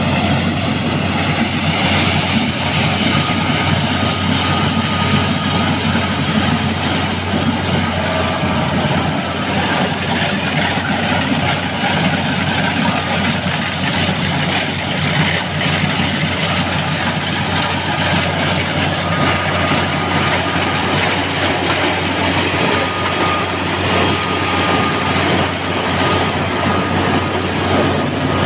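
A heavy engine running steadily without a break, with a constant low hum and a faint high whine above it.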